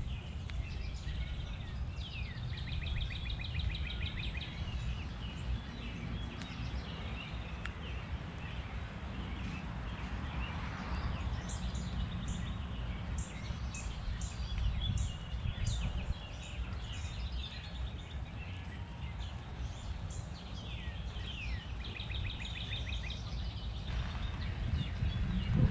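Backyard songbirds singing: a fast trilled phrase about two seconds in and again near the end, with a run of high, thin chirps in the middle. A steady low rumble sits underneath.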